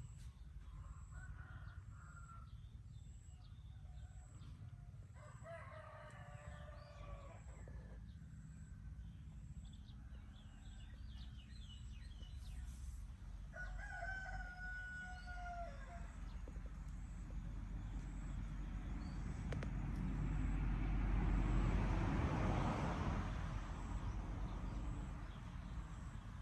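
Animal calls: three long, drawn-out pitched cries, the longest lasting about three seconds, followed later by a swelling rush of noise with a low rumble that peaks and fades near the end.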